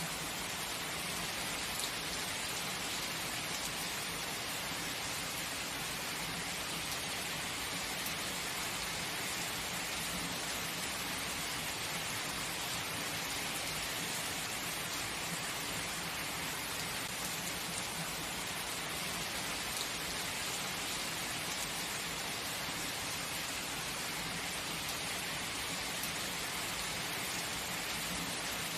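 Steady heavy rain falling and splashing on surfaces, an even hiss with no breaks.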